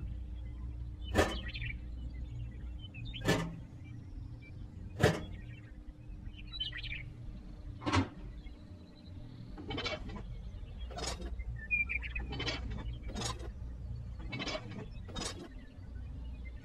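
Sharp taps and clicks of small metal model parts being picked up and set down, a couple of seconds apart at first, then lighter ones about once a second over a low steady hum.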